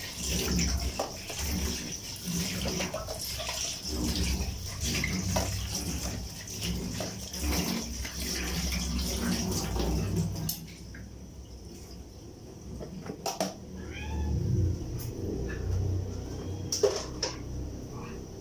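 Food sizzling and crackling in a lidded wok over a gas burner. About ten seconds in the sizzling drops away, leaving a few sharp clicks and several short high-pitched chirping calls.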